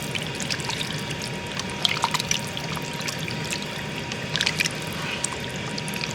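A pot of chitterlings in broth and water being stirred with a spoon: liquid sloshing and trickling, with scattered light clicks.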